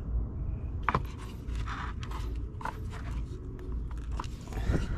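Irregular clicks and short scrapes of hands fitting plastic parts and clips back onto a car, over a steady low rumble.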